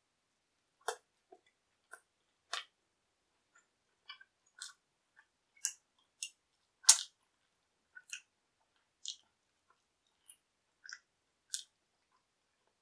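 Close-miked chewing of pizza: irregular crisp crunches and small wet mouth clicks, one every half second or so, with silence between them.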